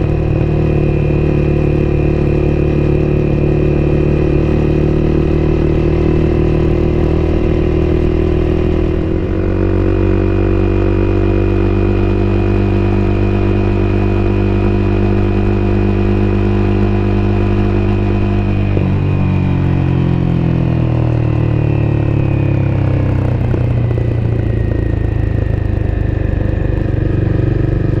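Honda CBR250R's single-cylinder engine running under way, heard from on board. The engine note shifts about a third of the way in, and later the revs fall steadily over several seconds before settling.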